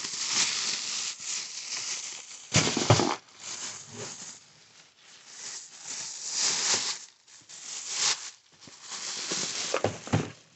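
Packaging being handled and opened during an unboxing: irregular crinkling and rustling, with a louder thump about two and a half seconds in.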